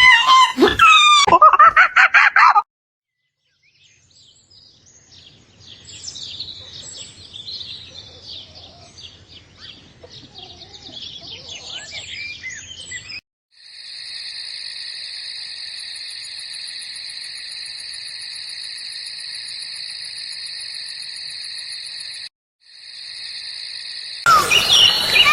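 Loud high-pitched cries at the start, then a short silence and a chorus of small birds chirping. About thirteen seconds in, a steady high buzzing tone takes over, broken once briefly, and loud cries return at the very end.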